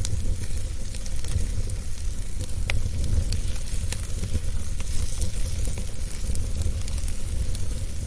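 Wood fire in a fireplace burning with a steady low rumble and hiss, with scattered sharp crackles and pops.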